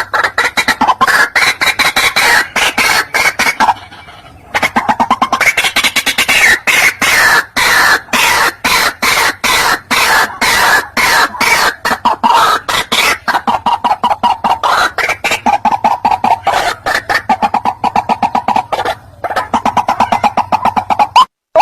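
White-breasted waterhen calling: a fast run of rapidly repeated croaking notes, broken by two short pauses.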